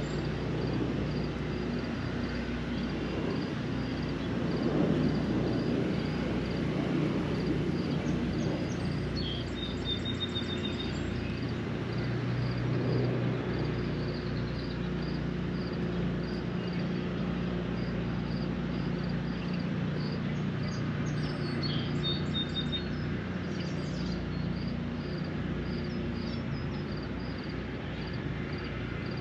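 Steady spring rain with small birds calling: one repeats a high chirp about twice a second, and another gives a short phrase three times, roughly every ten seconds. A steady low rumble runs underneath.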